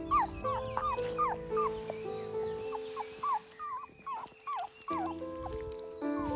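Puppy whimpering, a quick run of short high whines, two or three a second, that stops about five seconds in, over soft background music.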